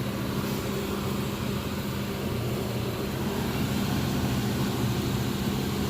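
2000 Chevrolet Cavalier's 2.2-litre four-cylinder engine idling steadily.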